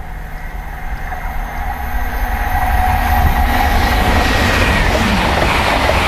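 LNER Azuma high-speed train approaching and passing at speed, its rumble and wheel-on-rail noise building to full loudness about three seconds in.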